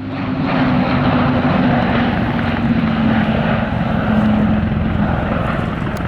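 Airbus A400M Atlas's four TP400-D6 turboprop engines and propellers running in flight: a loud, steady drone with a low tone that sinks slightly in pitch over the first few seconds.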